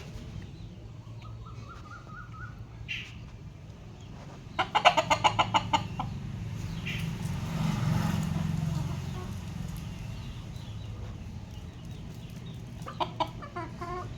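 Domestic chickens clucking, with a quick run of about a dozen loud clucks some five seconds in and another short run near the end, over a steady low rumble.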